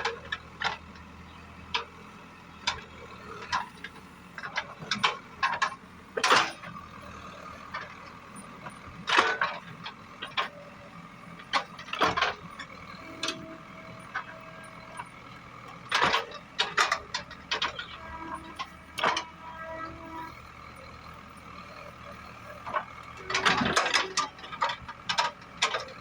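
CAT 424B backhoe loader working soil: its diesel engine runs steadily underneath frequent sharp metallic clanks and knocks from the bucket and linkage, coming in irregular clusters with a busy run of them near the end.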